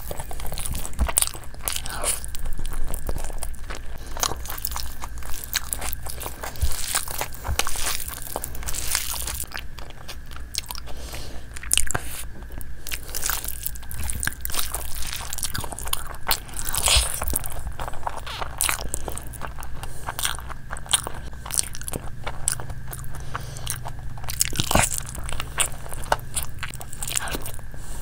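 Eating sounds: chewing and biting into saucy chicken, with many small crunches and crackles, and fingers working through gravy-soaked fried rice.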